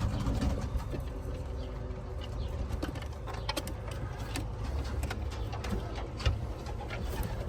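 Domestic pigeons cooing softly, with scattered light clicks and rustles of movement over a low rumble.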